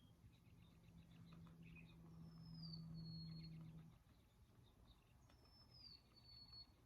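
Near silence with a faint steady low hum for about the first four seconds. Twice, a faint high bird whistle slides down and then holds.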